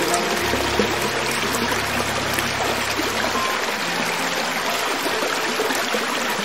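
Creek water flowing over rocks in a steady, even rush, with low held tones underneath that stop about halfway through.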